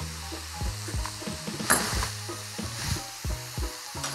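Chicken and vegetable stir-fry sizzling steadily in a frying pan, with background music playing under it.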